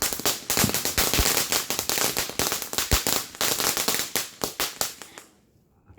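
Consumer fireworks crackling: a rapid, irregular run of sharp pops and cracks for about five seconds that stops abruptly near the end.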